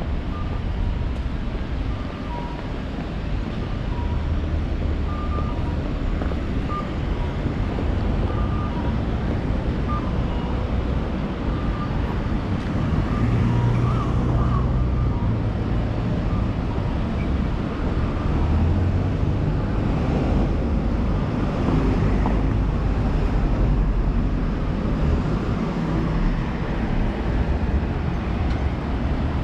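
Steady road traffic noise: a continuous low rumble of passing cars and trucks. Short faint pips sound during the first dozen seconds.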